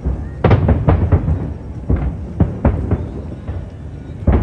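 Aerial fireworks shells bursting in quick succession: a run of sharp booms over a deep rumble, several in the first second and a half, more around the middle and one more near the end.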